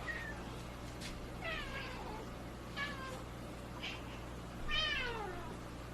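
Domestic cat meowing several times: a short chirp, then three calls that each fall in pitch, the last the longest and loudest.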